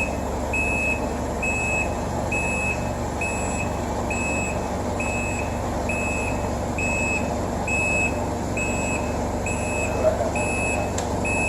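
Forklift reversing: its backup alarm beeps steadily, about one short high beep every 0.8 seconds, over the steady low running of its engine.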